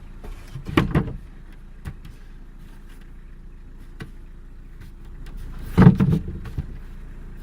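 Knocks and rattles from the van's doors and storage lids being handled, in two loud clusters about a second in and near six seconds, over a steady low hum.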